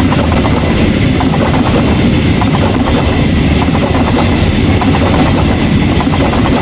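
Train of KKBW railway wagons rolling past. A steady loud rumble runs through it, with a continuous clatter of wheels over the rails.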